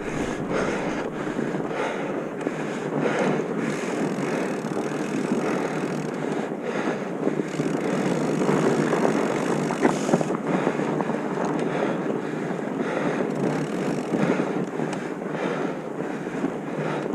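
Wind buffeting the microphone: a steady rushing noise with short surges every second or so.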